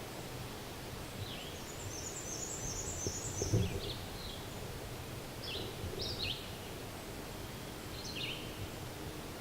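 Small songbirds calling over a steady outdoor hiss: short chirps that drop in pitch, repeated every second or two, and a fast high twittering run about two seconds in. A soft low thump about three and a half seconds in.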